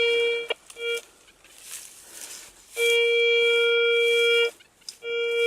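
Metal detector's audio tone sounding over a buried target: one steady buzzing note at a fixed pitch. It cuts off about half a second in and gives a short blip. It comes back for under two seconds about three seconds in, and starts again near the end.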